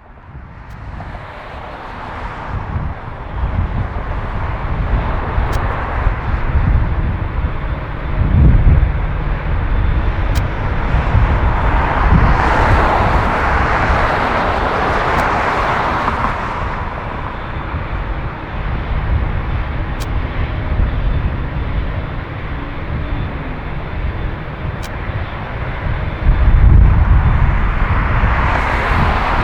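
Jet engine noise of a Boeing 777-300ER airliner on its landing run, its GE90 turbofans making a broad roar over a deep rumble. The sound builds from the start and swells several times, loudest with heavy low rumbles about a third of the way in and again near the end.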